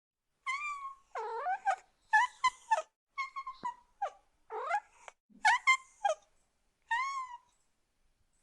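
A cat meowing again and again: a string of short, high meows, some rising and some falling in pitch, with brief pauses between them.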